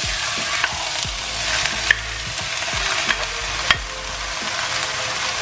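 Chopped onion and red pepper frying in spray oil in a non-stick pan, a steady sizzle, as pieces of raw seasoned chicken are tipped in. Two sharp clicks, about two and three and a half seconds in.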